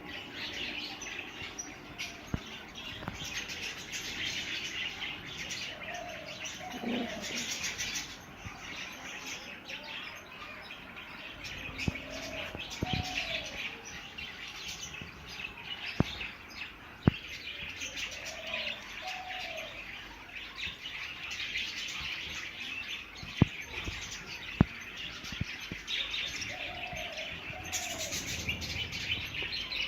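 A colony of budgerigars chattering and warbling continuously in a dense, overlapping stream. A lower two-note call recurs about every six seconds, and a few sharp clicks stand out in the second half.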